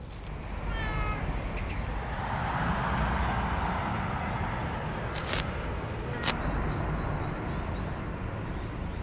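Black stray cat giving a short meow about a second in, over a steady low outdoor rumble; two sharp clicks follow later.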